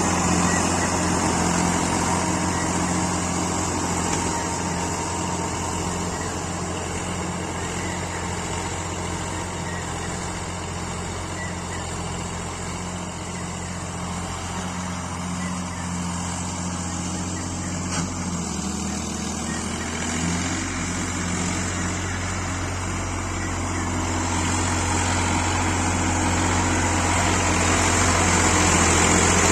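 ACE tractor's diesel engine running steadily. It grows quieter toward the middle and louder again near the end. About two-thirds of the way through there is a click and a brief change in the engine note.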